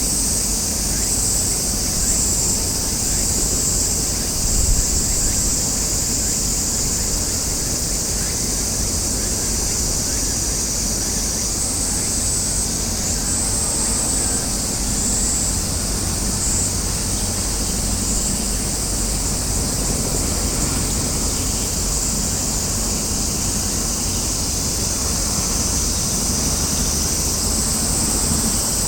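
Outdoor harbourside ambience: a steady low rumble of wind on the microphone under a constant high-pitched buzzing that grows louder in patches every second or two.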